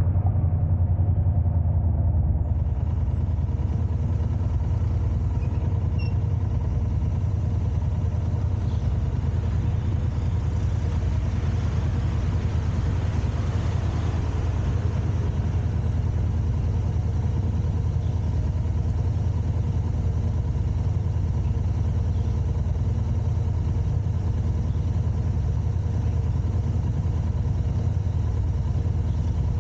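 Car on the move: a steady low rumble of engine and road noise with no sudden events.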